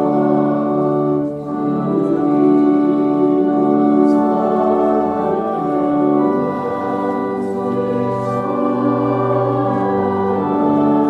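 Organ playing slow, sustained chords, the notes held and changing every second or two.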